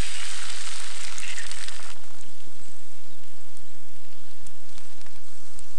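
Eggs frying in a pan of bacon and onions over a campfire: a loud sizzle for about the first two seconds, then a steadier, softer sizzle with small crackles.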